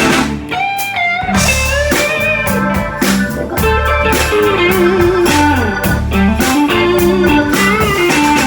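Live blues-rock band playing a song's instrumental intro: electric guitar lead lines over bass guitar and drum kit.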